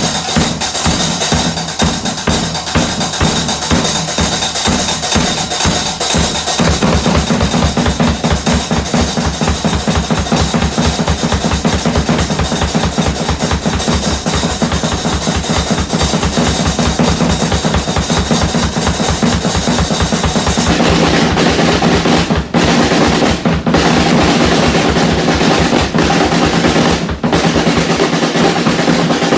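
Fast, continuous drumming with sticks: a dense, roll-like stream of strokes that gets denser and fuller about six seconds in.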